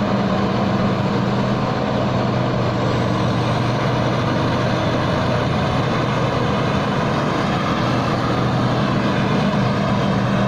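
Tai Seng rice combine harvester's engine running at a steady, constant drone while it works through deep mud.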